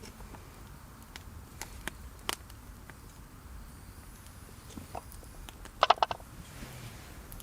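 Wood campfire crackling with scattered sharp pops, and a quick cluster of three or four loud knocks about six seconds in.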